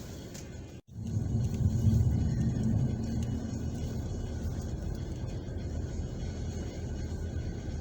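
Car driving on a snow-covered, icy road, heard from inside the cabin: a steady low rumble of engine and tyres. The sound cuts out completely for a moment just under a second in, then picks up louder and settles.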